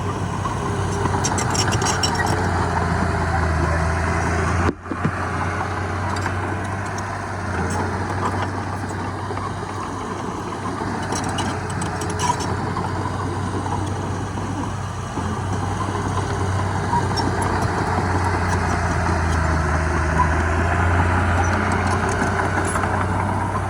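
Heavy diesel machinery engine running steadily at work, with faint scattered clicking; the sound briefly cuts out about five seconds in.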